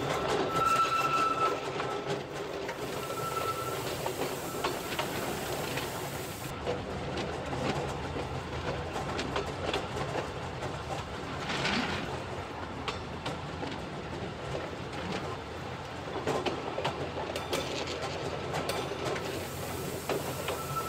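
Narrow-gauge rack railway train running, heard from the cab: a steady rumble with irregular clicking and clattering from the wheels on the track. Two short high tones sound in the first few seconds.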